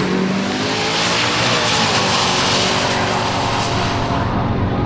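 A drag-racing car's engine running steadily, with a hiss of tyre and rushing noise that thins out over the first few seconds.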